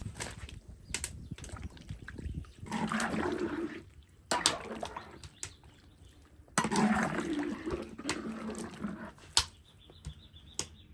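Water pouring and sloshing in two stretches, a second or more each, with scattered sharp knocks and clicks of kitchen work in between.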